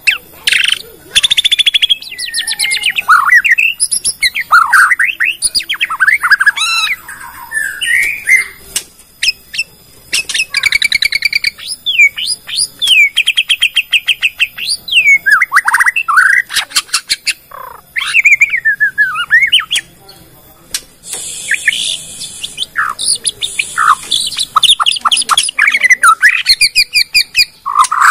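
White-rumped shama of the Bornean race singing a long, varied song of loud whistled glides, rapid trills and ticking chatter, showing off its mimicked repertoire of other birds' phrases. The song pauses briefly twice.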